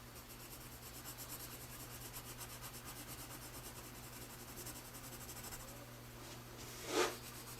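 2B graphite pencil hatching on paper: faint, rapid back-and-forth strokes in an even rhythm, with a short louder sound about seven seconds in.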